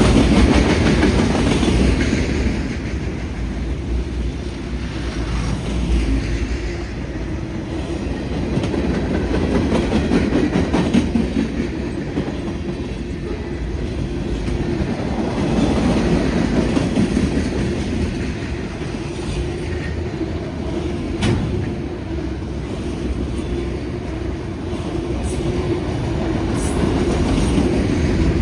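CSX freight train of mostly auto rack cars rolling past: continuous wheel-on-rail noise with a clickety-clack over the rail joints, swelling and easing every few seconds as the cars go by, with a few sharp clicks.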